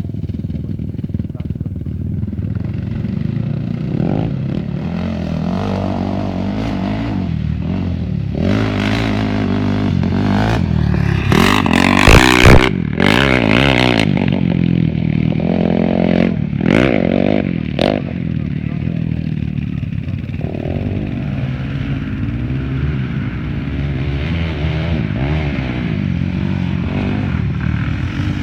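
Motocross motorcycle engines revving up and down as the bikes race. The loudest moment comes about twelve seconds in, when a bike passes close.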